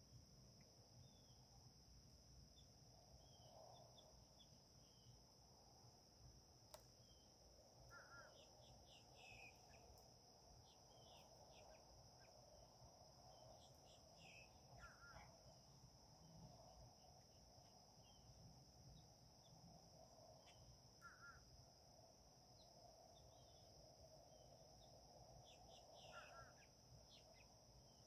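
Faint wild birds calling: many short high chirps, and one call repeating about every six seconds. Under them runs a steady high insect drone.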